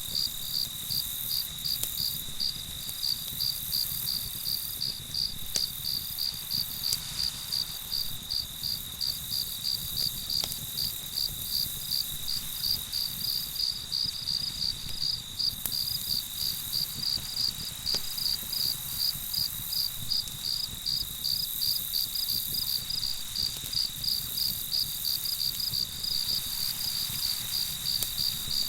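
Crickets chirping in a steady rhythm, about two to three chirps a second, over a continuous high-pitched insect trill. A few faint clicks sound in the background.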